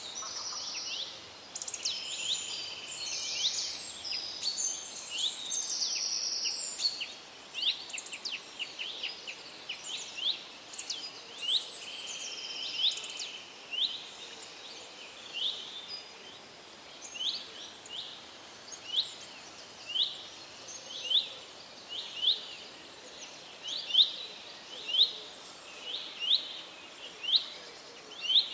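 Birds chirping: several birds calling and trilling over each other at first, then settling into one bird repeating a short, high, sweeping chirp about once a second.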